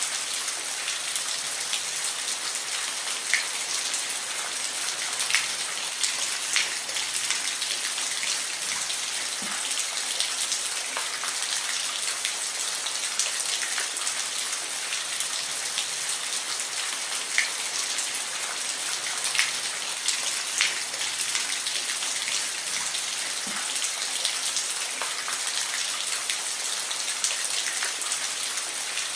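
Steady rain falling, a constant hiss with scattered louder drops ticking on a surface.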